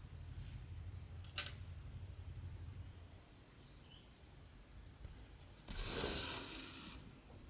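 Cotton thread being drawn through cross-stitch fabric: a rasping rub lasting about a second and a quarter near the end, with a sharp click about a second and a half in.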